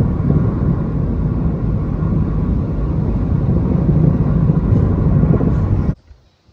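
Steady low rumble of a moving vehicle, cut off suddenly about six seconds in.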